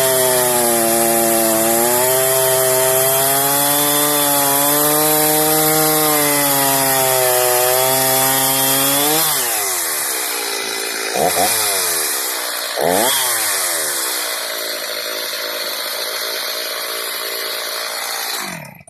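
Stihl MS 310 two-stroke chainsaw with a 20-inch bar running at high revs, its pitch dipping and recovering as it cuts wood. Then the throttle is released and the revs fall. It is blipped twice, settles to a steady idle, and cuts off suddenly at the end.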